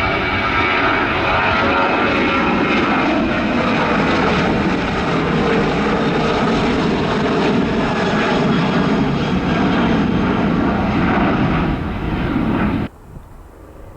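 An airliner's engines pass close by, loud and steady, then cut off suddenly near the end.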